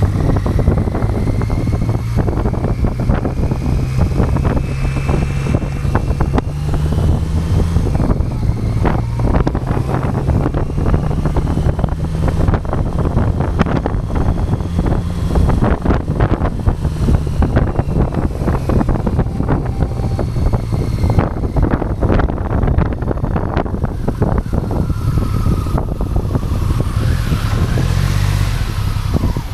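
Motorcycle engine running steadily under way, with a fainter higher whine that slowly rises and falls and constant rough buffeting noise over it.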